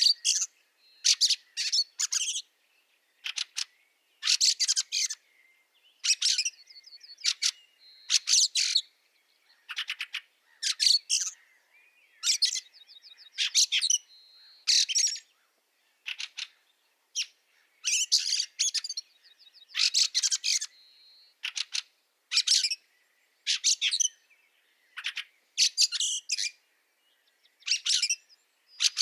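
Fieldfares calling: quick clusters of rasping, clicky chatter notes repeated about once a second, with a couple of short, higher trilled notes between them.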